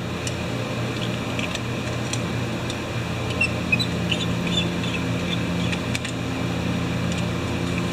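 Steady fan-like hum, with a few faint light clicks from small carburetor parts being handled.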